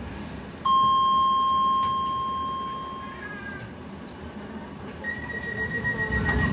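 Electronic warning tones on a Docklands Light Railway train at a stop with its sliding doors working: a steady beep about two and a half seconds long starts under a second in, then a higher steady tone begins about five seconds in, over the hum of the train cabin.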